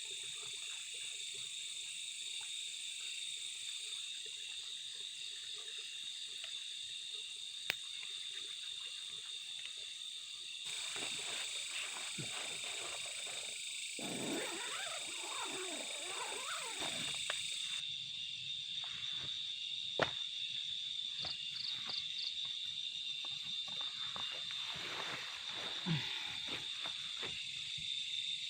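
Steady high-pitched chorus of insects trilling, with a few sharp clicks and a stretch of lower, shifting sound about halfway through.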